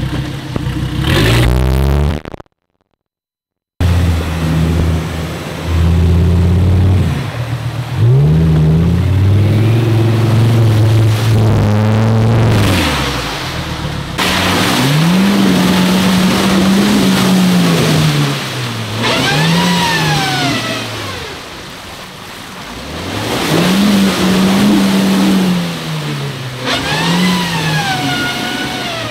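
Off-road 4x4's engine revving hard again and again, its pitch climbing and dropping as the throttle is worked. Near the end a high whine twice rises and falls along with the revs. A moment of silence about three seconds in.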